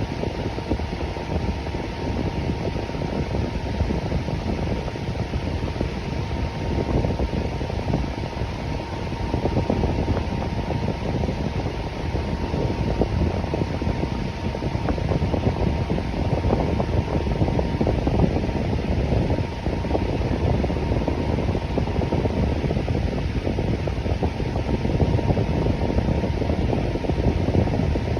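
Electric fan running steadily: an even whooshing rush of air, strongest in the low range, with a faint steady hum.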